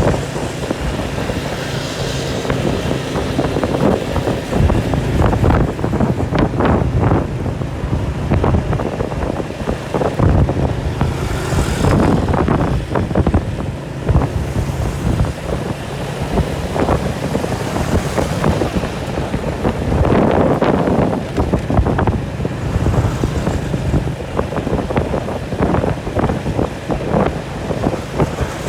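Wind buffeting the microphone over a running engine: a loud, uneven rushing that swells and eases every few seconds.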